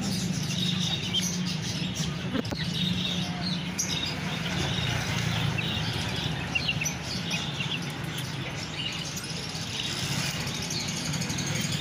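Many small caged birds chirping in quick, scattered short calls, over a steady low rumble of market bustle.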